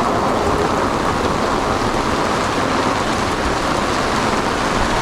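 Heavy rain pouring down, a steady, loud hiss with no letup.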